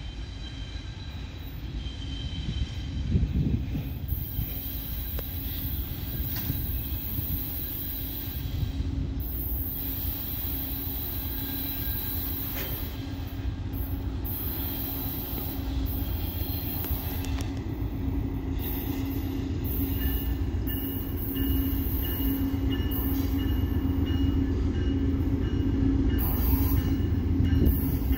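VIA Rail passenger train running through a curve, its wheels squealing on the curved rails in thin high tones over a steady low hum and rumble. The sound grows louder toward the end.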